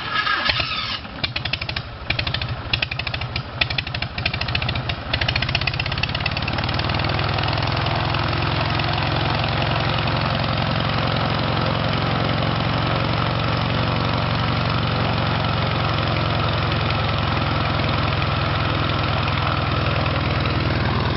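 Light aircraft piston engine starting for the first time after installation: it catches suddenly and runs roughly and unevenly for about six seconds, then settles into a steady idle.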